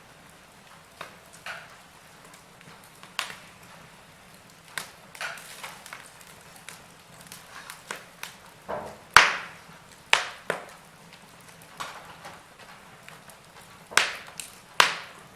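Wood fire crackling in a fireplace: irregular sharp pops and snaps over a faint hiss, the loudest about nine seconds in and a quick cluster near the end.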